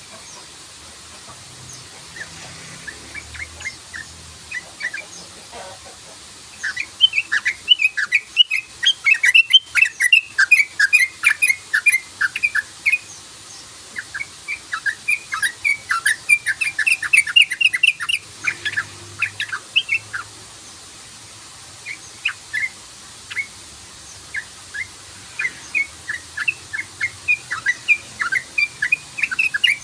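Yellow-vented bulbul (trucukan) singing its rapid 'cruk-cruk' chatter, fast runs of short chirping notes. It is scattered and faint at first, then comes in long quick runs several notes a second, with a couple of short pauses.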